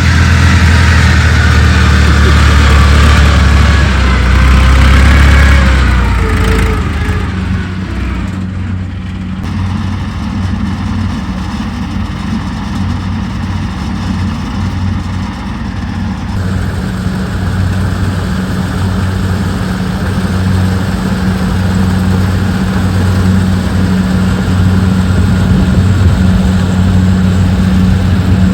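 Rice combine harvester engine running with a steady low hum, a wavering whine from the machinery over it for the first several seconds before it eases off and the sound settles quieter.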